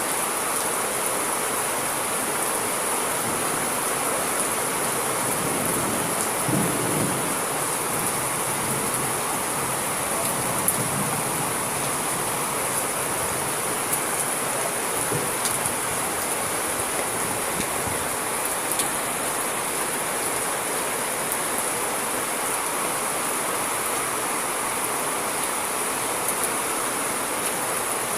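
Steady rain with scattered drop ticks and a brief low thunder rumble about six seconds in.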